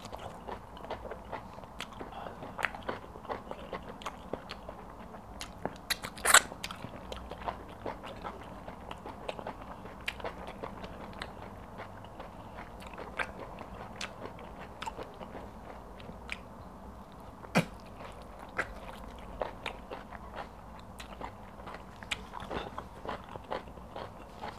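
Close-miked eating: wet chewing and lip-smacking of pounded yam and egusi soup, with many small mouth clicks. Two sharper smacks stand out, about six seconds in and near eighteen seconds.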